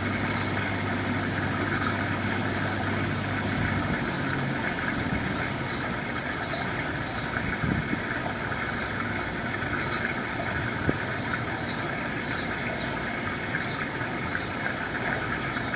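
Steady idling engine-like running noise with a low hum that cuts off about four seconds in, and faint short high chirps repeating every second or so.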